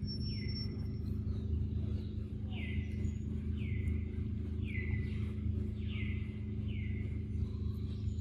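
A forest bird repeating a short falling call six times, about once a second, over a steady low background hum.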